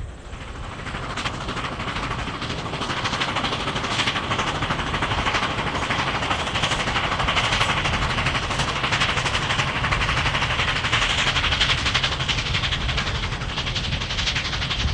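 Steam-hauled passenger train passing at speed: a steady rolling rumble with a dense, rapid clatter of steel wheels on the rails, swelling over the first couple of seconds and then holding.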